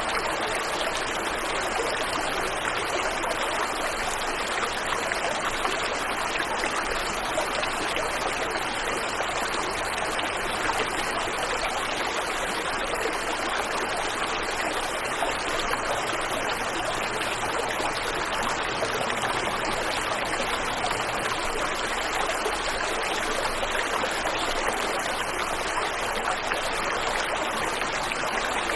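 Waterfall and river water rushing, a steady, even noise that does not change.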